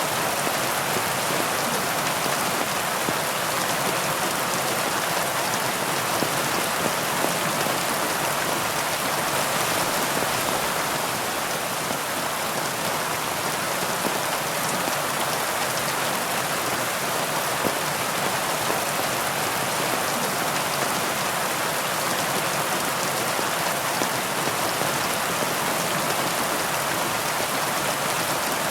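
Heavy rain falling steadily, a dense even hiss of many raindrops hitting surfaces.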